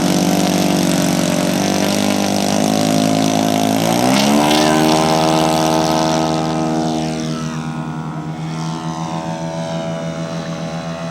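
Radio-controlled scale Decathlon seaplane model's engine running, then throttling up to a higher, steady pitch about four seconds in for the takeoff run. The sound grows fainter in the second half as the plane moves away.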